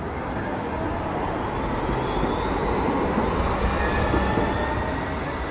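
A rail vehicle passing close by: a rumble that swells to its loudest about three to four seconds in and then eases off, with a thin steady high whine above it.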